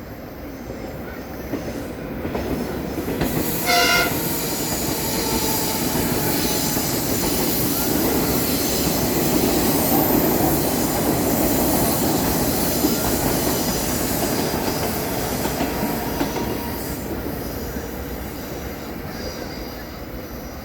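Train running on the rails, growing louder to a peak about halfway through and then fading, with one short horn toot about four seconds in.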